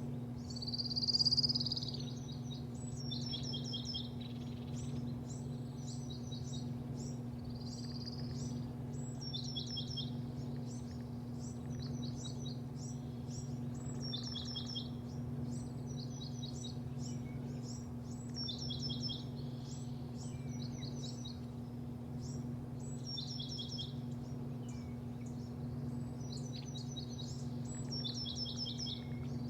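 Small birds singing, short runs of high falling notes repeated every second or two, with one louder slurred whistle about a second in. A steady low hum runs underneath.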